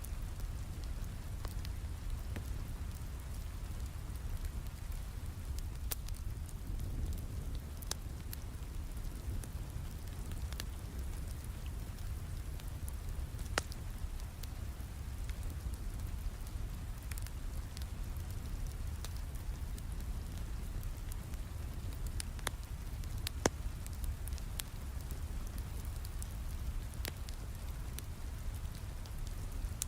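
Steady rain with a low rumble, mixed with a crackling wood fire in a fireplace: a scatter of sharp pops and clicks, two of them louder, about halfway through and near the end.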